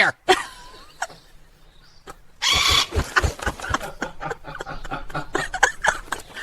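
A cat hissing in one short harsh burst about two and a half seconds in, followed by a run of light, quick clicks and taps.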